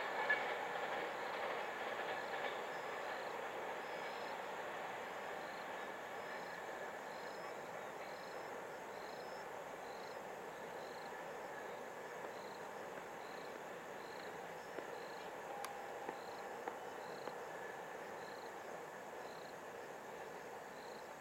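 Rumble of a long container freight train's wagons rolling away, fading steadily as the rear of the train recedes into the distance.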